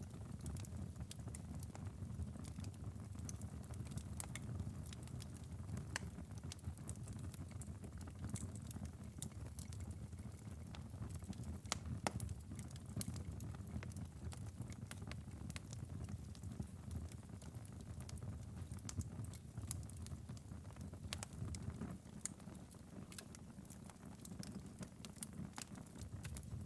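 Wood fire crackling in a fireplace: frequent sharp pops and snaps, one louder pop about halfway through, over a low steady rumble of the flames.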